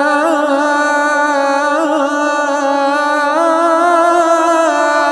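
A muezzin's solo voice singing the adhan, drawing out one long vowel with small melodic turns and a steady, slightly wavering held note.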